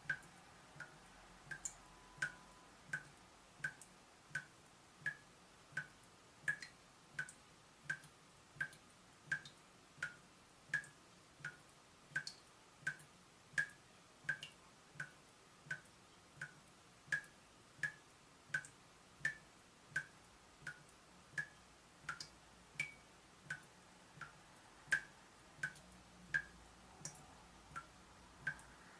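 Water dripping from a leaking tap: single drops falling at a steady, even pace of about three every two seconds, each a short, faint plink.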